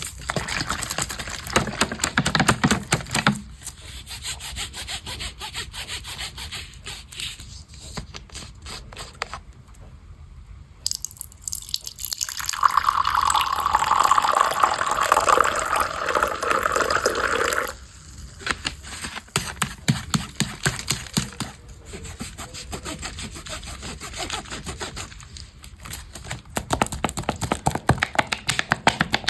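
Close-miked ASMR tapping and clicking in quick, uneven runs. About eleven seconds in, a louder steady rushing sound takes over for about six seconds, then stops suddenly and the tapping resumes.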